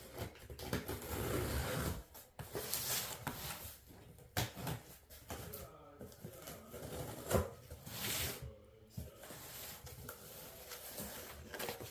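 A cardboard shipping box being opened and its contents handled: intermittent rustling and scraping with a few light knocks, the sharpest about seven seconds in.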